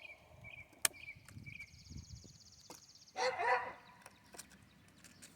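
Garden hoe chopping and knocking at packed dirt, with a sharp knock about a second in and soft thuds after. A short animal call comes about three seconds in, and birds chirp faintly.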